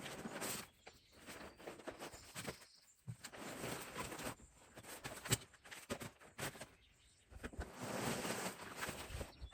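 Rustling and handling noise from unpacking a chainsaw box, in irregular bursts with short pauses and a sharp click about five seconds in.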